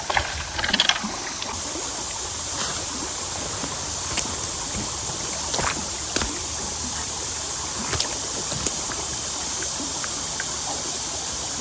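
Creek water running steadily through and around a culvert, with a cluster of sharp knocks in the first second and several single snaps or knocks scattered later.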